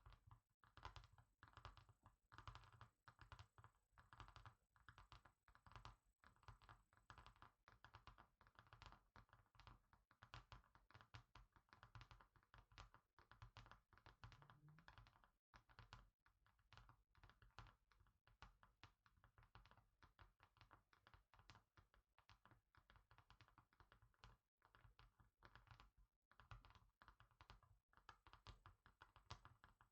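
Quiet, rapid fingertip and fingernail tapping on a hard surface, many taps a second with a few brief pauses.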